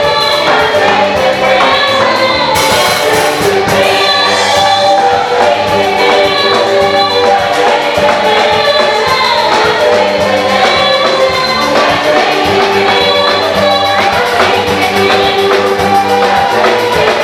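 Choir singing an African gospel song with band accompaniment and steady drumming.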